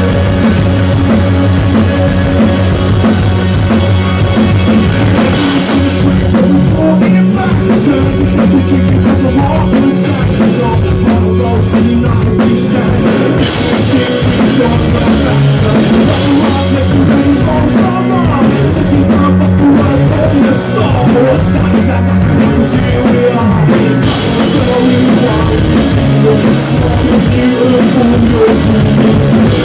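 Live punk rock band playing loud, with drums and guitar, recorded with poor, overloaded sound.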